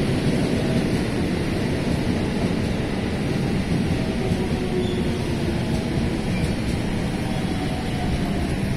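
Steady rumble and hiss of a train running on the line beside a station platform, with a few faint wavering tones over it.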